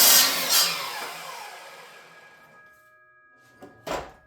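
Electric power saw finishing a squaring cut across the end of a wooden stud, then its blade winding down with a falling whine after the trigger is released. A single sharp knock follows near the end.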